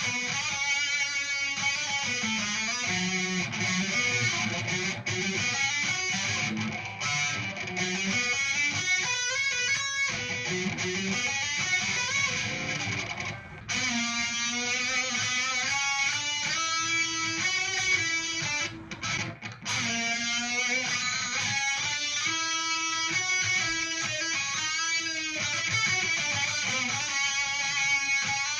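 Electric guitar playing a lead solo of fast runs of notes, with two brief breaks about 13 and 19 seconds in.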